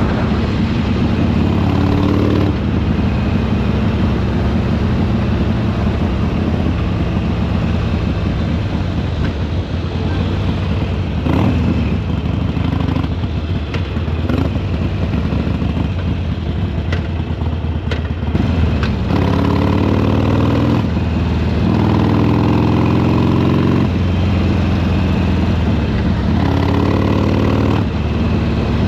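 Harley-Davidson Sportster Iron 883's air-cooled V-twin engine and exhaust running under way. In the later part the engine note rises three times as the bike accelerates.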